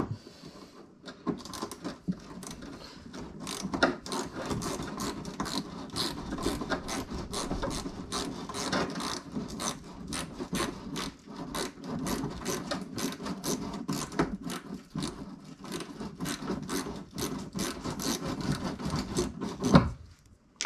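Hand ratchet clicking in long runs as it turns a bumper bolt that just spins, its threads stripped out of the plastic clip in the car body. A louder knock comes near the end.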